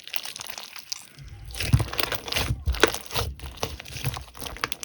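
Slime being squished and kneaded by hand, giving dense irregular crackling and popping clicks, joined by muffled handling noise close to the microphone from about a second in.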